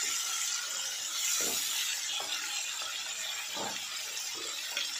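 Onions, tomatoes and cashews sizzling in oil in a non-stick kadai: a steady sizzle, with a few scrapes and light clinks of a silicone spatula stirring against the pan.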